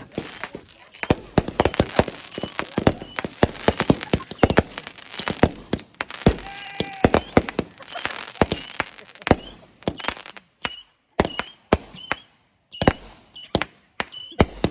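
Fireworks going off in a rapid run of sharp bangs and crackles, thinning out into separate bangs with short gaps over the last few seconds.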